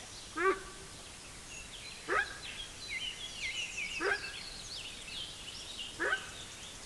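Wildebeest (Connochaetes) giving four short calls that rise in pitch, about two seconds apart. Faint bird chirps are in the background.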